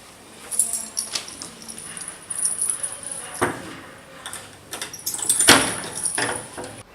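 A bunch of keys jangling while a door is unlocked, with two sharp knocks from the lock and door, the louder one about five and a half seconds in.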